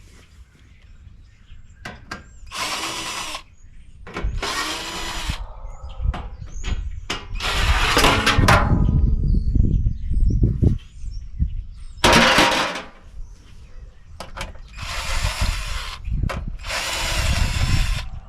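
Power drill running in about six short bursts, a steady whine each time, taking screws out of the sheet-metal condenser housing. Metal clanks and rattles come between the bursts.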